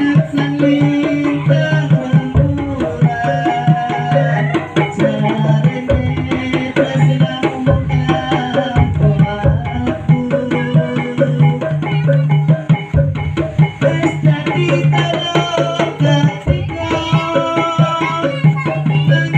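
Topeng Ireng dance accompaniment music: fast, busy drumming over a steady low drone, with a melody of held notes above it.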